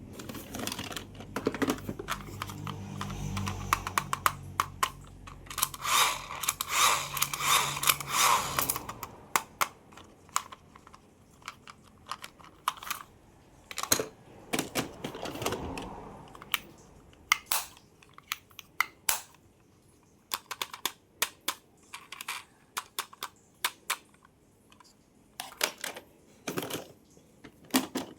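Irregular clicks and taps of plastic toy cars and their packaging being handled, with a denser stretch of crinkly rustling about six to nine seconds in. A low steady hum runs under the first nine seconds, then stops.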